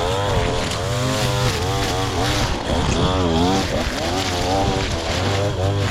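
Small gas engine of a lawn mower running, its pitch wavering up and down again and again as the load changes while cutting overgrown grass.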